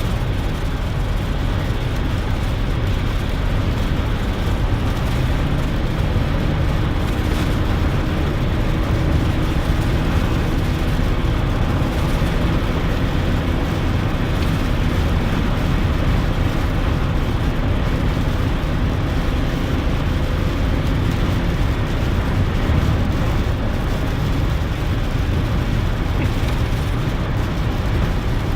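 Steady cabin noise of a 2001 GMC Sierra pickup driving on wet roads: a low drone of engine and tyres with a hiss of spray, running evenly throughout.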